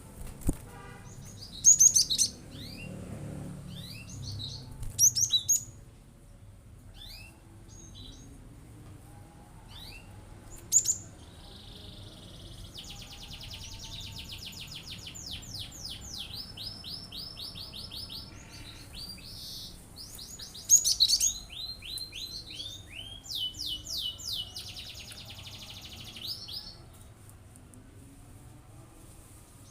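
Cinereous tit (gelatik batu) singing hard: loud, sharp high chirps now and then, and two long runs of fast repeated notes, one through the middle and one near the end. These are the rapid call bursts that keepers call 'tembakan' (shots).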